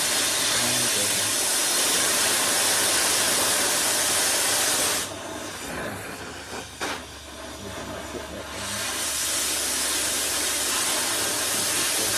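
Oxy-acetylene cutting torch hissing steadily as it cuts steel plate. About five seconds in, the hiss drops to a much quieter level for about three and a half seconds, with a short click partway through, then comes back at full strength.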